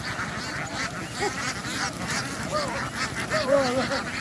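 A flock of domestic ducks calling, many short quacks overlapping one another, with a small run of calls near the end.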